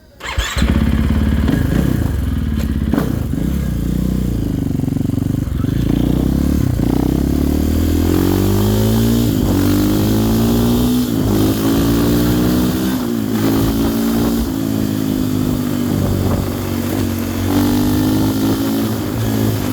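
2024 GasGas ES500's single-cylinder four-stroke engine, coming in suddenly and running hard as the dirt bike pulls away. Its pitch climbs and then drops at each upshift, several times over, as the bike accelerates through the gears.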